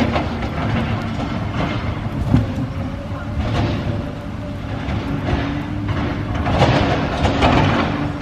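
Large bonfire burning: a steady low rumble with scattered crackles.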